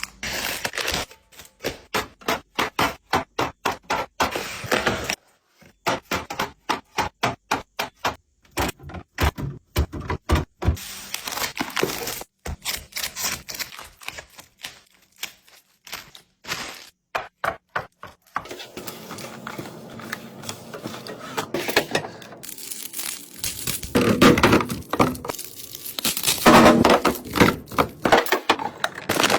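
Items being handled and set into a fridge: a long series of sharp clicks and knocks, a few a second, then from about two thirds in a denser, noisier stretch of rustling and handling that grows louder near the end.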